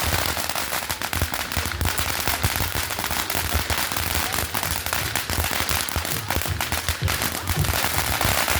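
Fireworks crackling in a rapid, continuous string of sharp pops, like a firecracker string going off.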